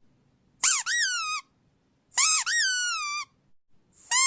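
Squeaky dog toy squeezed and released, giving paired high squeaks that rise and fall in pitch: two pairs, and a third squeak starting near the end.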